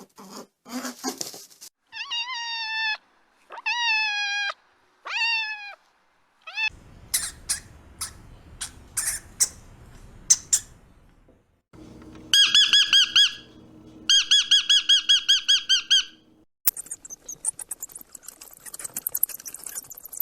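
A run of different small-animal calls: four falling squeaky calls, then clicking, a fast trilling chatter, and rapid clicking over a hiss near the end.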